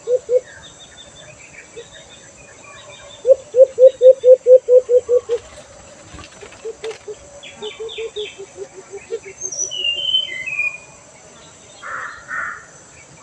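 A dove (alimukon) calling: a fast run of about ten low cooing notes a few seconds in, then softer runs that slow down. Smaller birds chirp at a higher pitch throughout.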